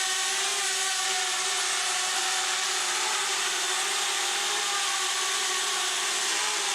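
DJI Spark drone's propellers whining in a hover, the pitch wavering slightly as the motors correct, over the steady rush of a Dyson hairdryer blowing air at it.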